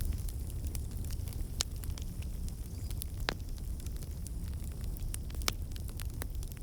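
Wood fire burning in a fireplace: a steady low rumble of flames with constant small crackles, and a few louder sharp pops scattered through.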